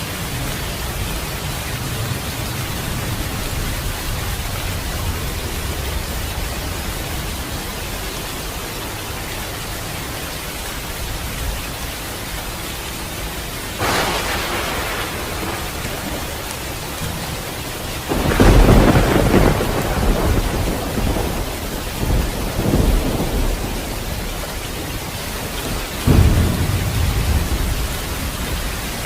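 Steady rain falling, with thunder: a sharp crack about halfway through, then a long, loud low rumble a few seconds later and another short rumble near the end.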